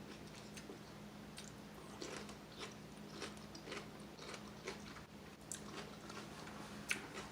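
A person chewing crunchy food with faint, irregular crunches, the sharpest one near the end. A steady low hum runs underneath.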